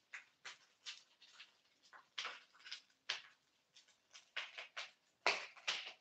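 Pork pieces frying and browning in a pan, crackling and popping irregularly, a few pops a second.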